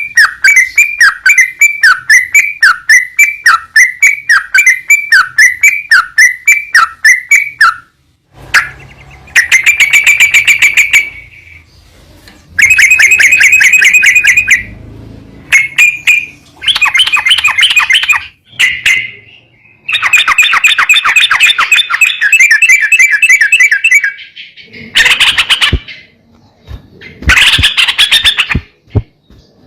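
Yellow-vented bulbul (trucukan) song from a trigger recording for caged birds. A run of quick repeated chirping notes, about four a second, lasts about eight seconds. It is followed by several bursts of fast chattering trills and harsher calls near the end.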